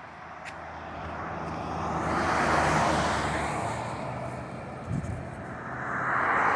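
A vehicle passing by: engine hum with a noise that swells and fades about two to three seconds in, then builds again near the end. A short thump about five seconds in.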